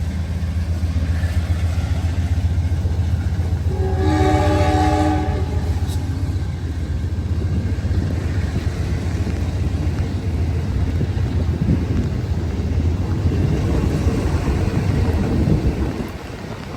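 Amtrak P42DC diesel locomotives running with a steady low drone. About four seconds in, the train horn sounds one chord-like blast lasting roughly a second and a half.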